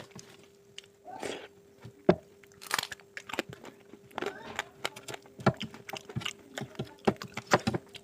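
Close-miked eating of mutton curry: irregular wet smacks, bites and crunches of chewing, with a faint steady hum underneath.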